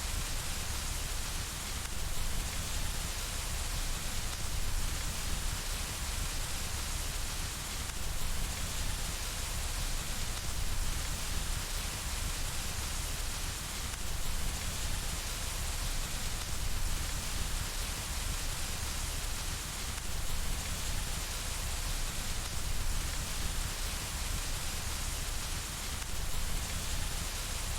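Steady rain on window glass: an even, continuous hiss with a low rumble underneath.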